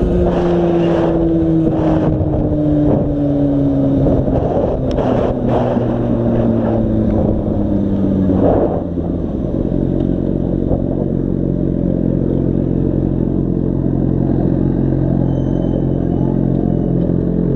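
Yamaha FZ6 motorcycle's inline-four engine heard from the rider's camera, its pitch falling steadily as the bike slows over the first nine seconds or so, then holding a steady lower note. Wind noise buffets the microphone during the first half.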